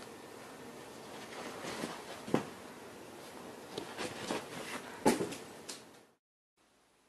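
A few sharp knocks and clicks over a steady hiss, the loudest about two and a half seconds and five seconds in; the sound cuts off suddenly about six seconds in.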